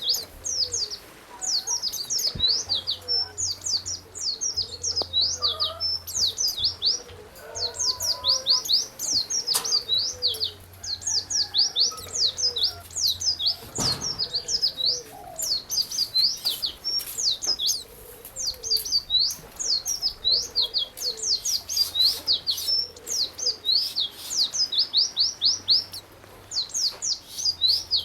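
A songbird singing: rapid strings of sharp, very high chirps in phrases of a second or two, broken by short pauses, with fainter lower warbling notes beneath.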